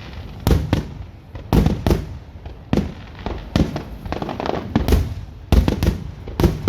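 Fireworks going off: a dozen or so sharp bangs at irregular intervals, some close together in pairs, each with a short rumbling tail.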